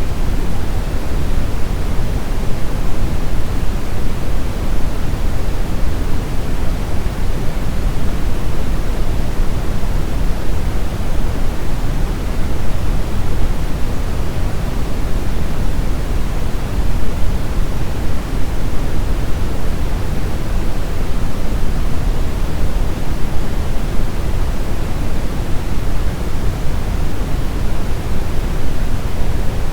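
Steady brown noise: a deep, even rushing hiss, strongest in the bass and falling away toward the treble, with no changes or events.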